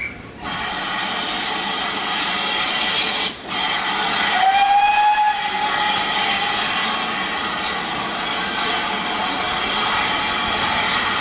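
Steam locomotive letting off a loud, steady hiss of steam, with a short whistle blast about four seconds in.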